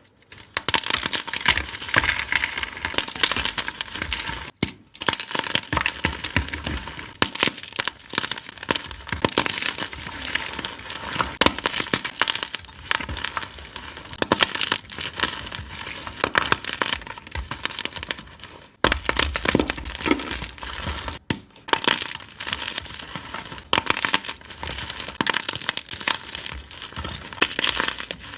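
Reformed gym chalk blocks being crushed and crumbled by hand, giving a dense run of crunchy crackling and gritty snapping. It stops briefly a few times where the clips are cut together.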